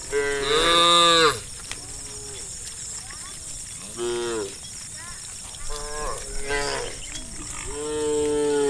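Cows mooing in a herd, several animals calling one after another: four moos, the loudest and longest about a second in, shorter ones near the middle, and another long one near the end.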